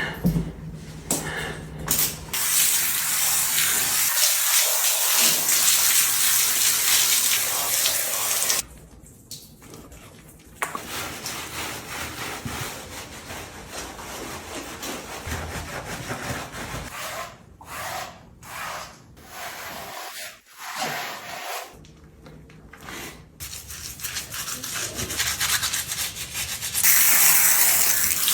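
Water spraying onto a cow's hide as it is washed, loud and hissing for several seconds early and again near the end. Quieter rubbing and splashing, with brief pauses, between the two spells of spray.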